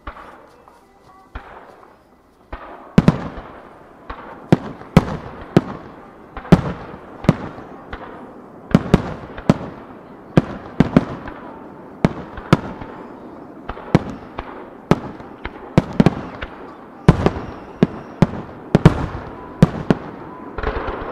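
Aerial firework shells bursting in quick succession: sharp bangs with echoing tails. A couple of bangs come at the start, then a steady barrage of about one to two a second from a couple of seconds in.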